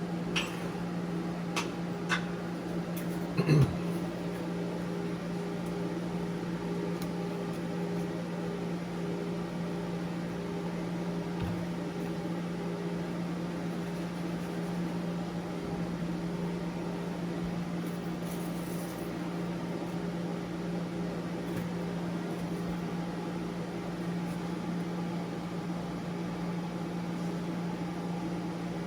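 Steady electrical machine hum that holds one low pitch throughout, with a few light clicks and taps in the first few seconds.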